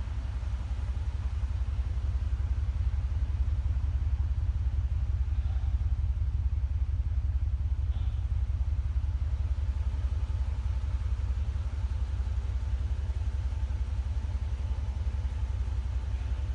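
Mercedes SL55 AMG's supercharged V8 idling steadily through a new stainless-steel exhaust system, a low, even rumble.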